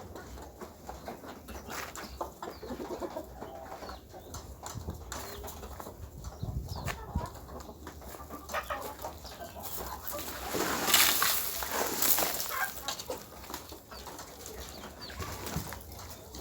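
Chickens clucking and pecking, with many small clicks and scratches, and a louder flurry of rustling around eleven seconds in, likely flapping wings.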